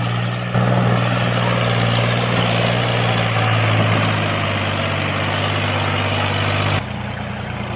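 A motor running steadily with a low hum, which drops in level about seven seconds in.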